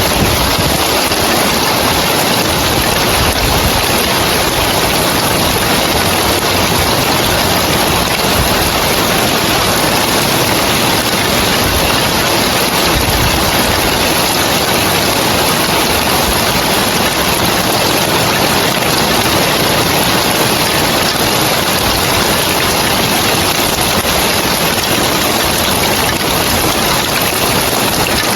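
Heavy rain falling steadily on a tiled roof, a dense, even wash of drops with no let-up.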